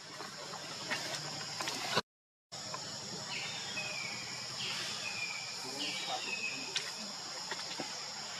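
A series of short, high, falling chirps, about four of them, over a steady high hiss, with a half-second cut to silence about two seconds in.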